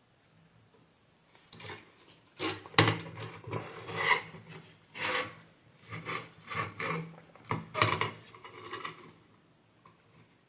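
Irregular scraping and rubbing of a hand tool against a washing machine control board, in a series of short strokes.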